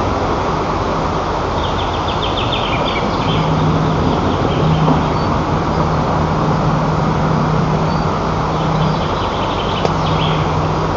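Bird calls, two runs of rapid repeated high notes, one about two seconds in and another near the end, heard over a loud steady rumbling noise and a low hum.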